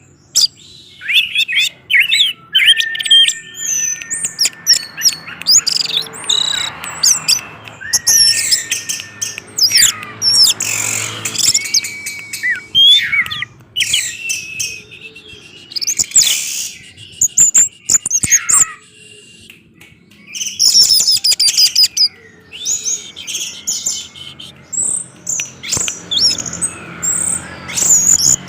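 Orange-headed thrush singing a loud, continuous, varied song of rapid whistles, chirps and gliding notes, with a brief pause about two-thirds of the way through.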